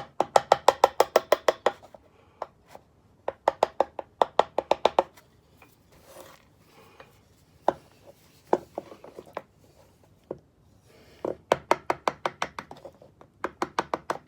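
Fast runs of light taps on a teak deck plug, about seven a second, in several bursts with short pauses and a few single taps between: tapping out an old teak plug, working it loose along the grain.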